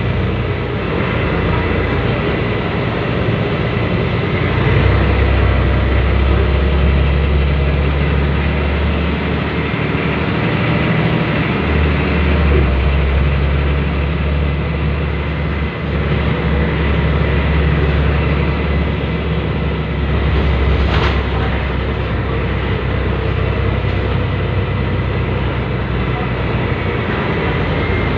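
Scania L113CRL city bus's 11-litre six-cylinder diesel engine running, a loud, steady drone whose low rumble swells and eases as the bus pulls away and slows, with one brief sharp knock about three-quarters of the way through.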